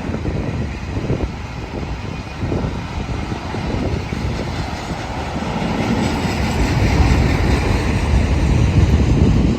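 Union Pacific train rolling past with a steady low rumble and rail noise, growing louder in the second half.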